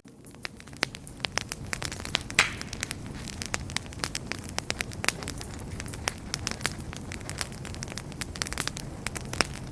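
Wood fire crackling: frequent sharp pops and snaps over a low steady rumble of the flames, with one louder pop about two and a half seconds in.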